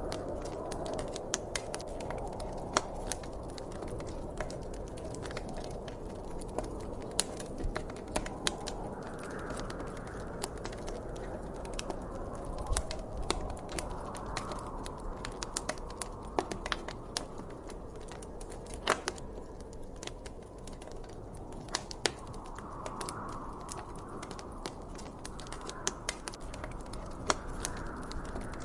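Wood fire crackling, with irregular sharp pops, some louder than others, over a soft steady rush of wind that swells now and then.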